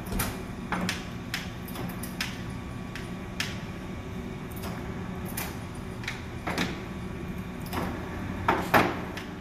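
Hendey engine lathe running in a selected speed, its motor and gear train giving a steady hum. Irregular sharp clicks and clunks sound over it, the loudest two near the end.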